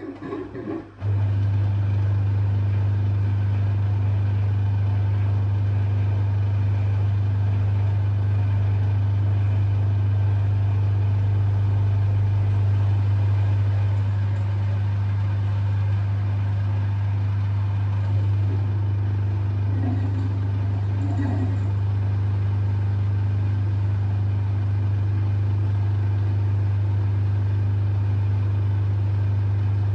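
Drain pump of an LG F1222TD washing machine running, a loud steady hum that switches on about a second in and holds unchanged; the machine is in a sud lock, with thick suds in the drum.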